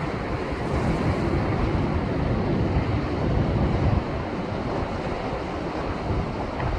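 Heavy surf of the swell left by a passing typhoon surging and breaking against a rocky shore, a continuous rushing wash with wind buffeting the microphone.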